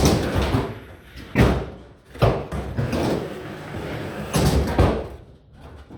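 Skateboard rolling on a skatepark ramp, with several sharp slams as the board and trucks strike the ramp and coping.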